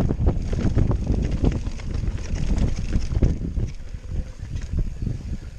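Enduro mountain bike descending a rough trail: wind buffets the microphone over a rapid rattle and knock of tyres and frame on the ground, easing off near the end.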